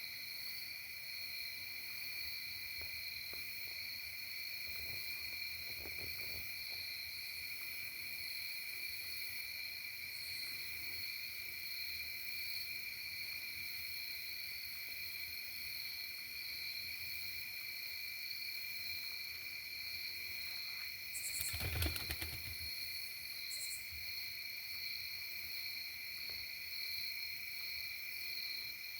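Steady insect chorus: a continuous high trill that holds one pitch. About three quarters of the way through there is a brief crackling knock.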